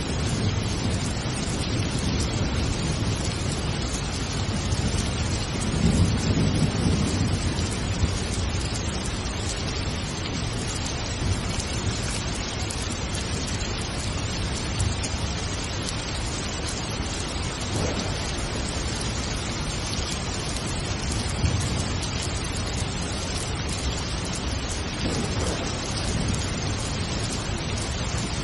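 Steady heavy rain with low rolling thunder underneath, the rumble swelling loudest about six seconds in.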